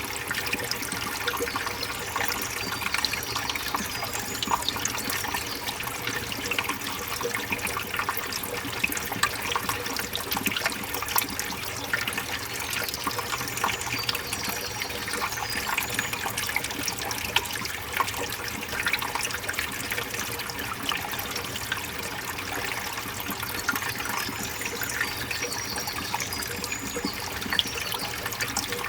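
Forest stream water running over rocks, trickling and splashing without pause.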